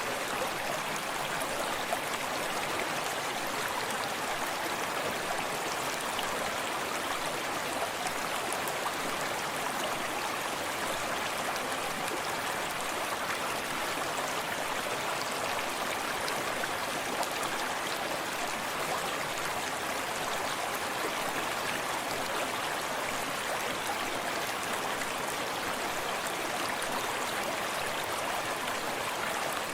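Small forest stream running steadily over rocks, a constant rushing with light splashing and trickling.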